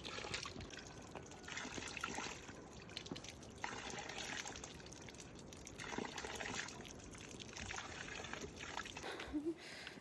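Running water trickling and splashing, swelling and fading every second or two.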